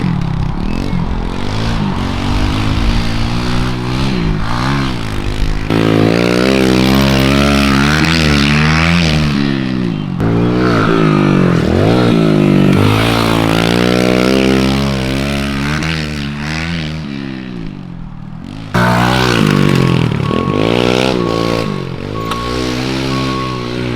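Kawasaki KLX 110 pit bike's small four-stroke single-cylinder engine being ridden hard, revving up and falling back again and again as it accelerates and shifts. The sound jumps abruptly a few times between separate passes.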